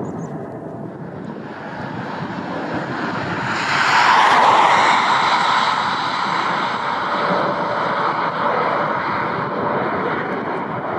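Jet airliner's engines: a rushing noise that swells to its loudest about four seconds in, then stays loud with steady whining tones.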